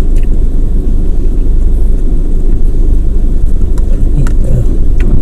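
Steady low rumble of a parked car's engine idling, heard from inside the cabin, with a few light clicks near the end.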